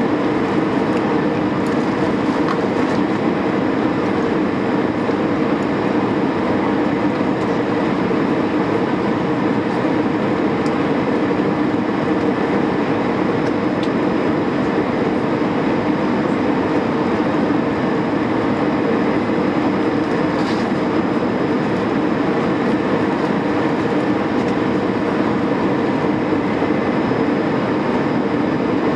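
Steady roar of an Airbus A320's engines and airflow, heard inside the passenger cabin, with no noticeable change.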